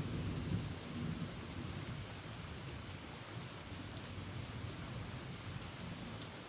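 Steady heavy rain falling on a tin roof, with a low rumble of thunder dying away in about the first second.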